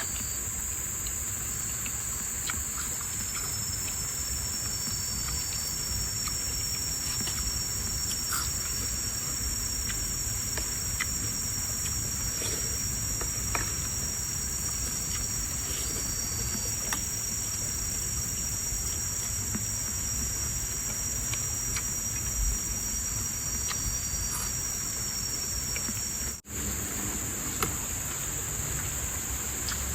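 Steady high-pitched insect chorus, with a second thin, even insect whine that comes in about three seconds in and holds. Faint small clicks are scattered through it. Near the end all sound drops out for an instant, then the chorus resumes.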